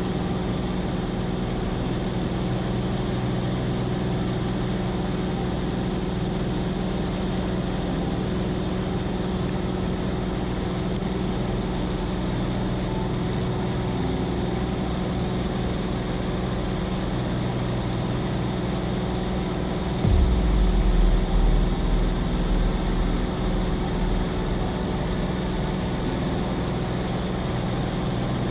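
Seaplane's piston engine and propeller droning steadily. About twenty seconds in, a deeper rumble comes in and fades over a few seconds.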